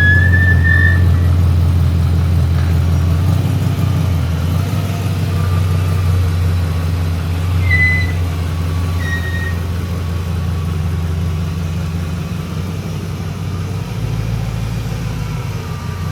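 4-litre V8 engine in a BMW E30 running at steady low revs, a deep rumble that slowly grows quieter.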